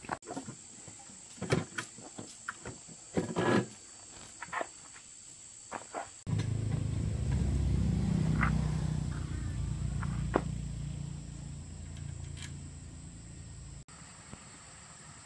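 Scattered metallic clicks and knocks of hand work, then a diesel engine running with a steady low rumble that starts abruptly about six seconds in and cuts off abruptly about seven seconds later.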